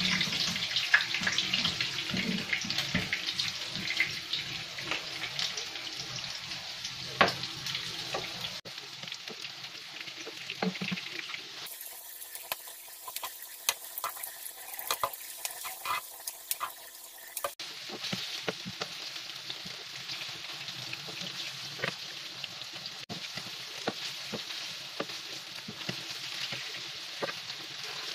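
Meatballs shallow-frying in hot oil, a steady sizzle and crackle, with occasional sharper clicks as a metal skimmer turns them in the pan. For several seconds midway the sizzle turns thinner and hissier.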